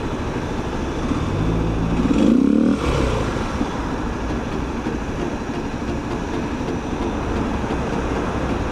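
Kawasaki KLX250's single-cylinder four-stroke engine running at low speed in slow traffic, with a brief rise and fall in revs about two seconds in.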